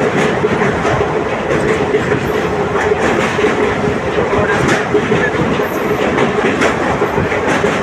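Passenger train running along the track, its wheels clattering over the rails over a steady hum.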